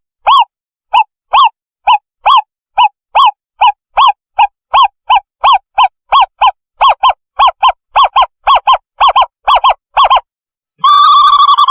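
Owl call used as a decoy lure: short, clear, rising-and-falling notes repeated steadily, quickening from about two to nearly four a second. Near the end the notes break into a fast continuous trill.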